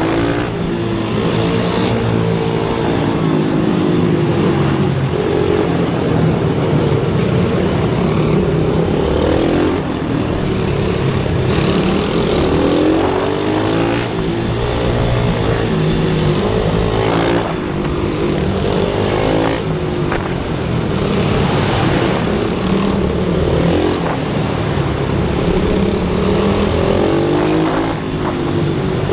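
Several small racing motorcycles running on a track, their engines revving up and down through the gears, with their pitches overlapping.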